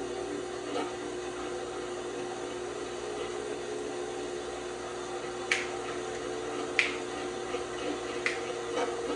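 LG washing machine running with a steady motor hum. From about halfway on, sharp clicks come roughly every second and a half.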